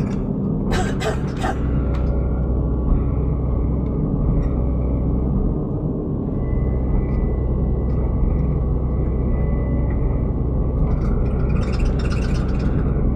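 Excavator's diesel engine running steadily, with a few sharp clanks about a second in and a faint high whine through the middle.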